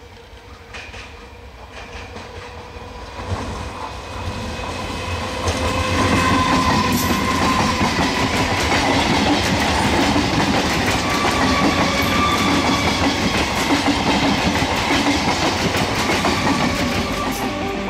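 A nine-coach electric multiple unit local train runs past at speed close to the track. Its sound builds over the first six seconds, then holds loud as the coaches go by.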